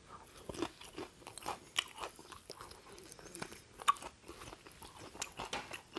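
Close-miked crunching and chewing of a crispy-coated KFC hot wing: a run of small crackles, the loudest about four seconds in.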